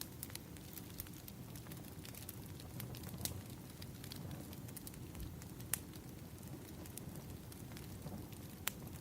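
Wood fire burning: a steady low rumble with scattered crackles and sharp pops from the burning logs, the loudest pops about three seconds in, just before six seconds, and near the end.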